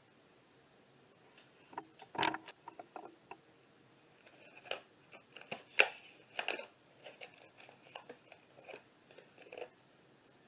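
Cat chewing and crunching food: a run of irregular crunches and clicks, stopping near the end.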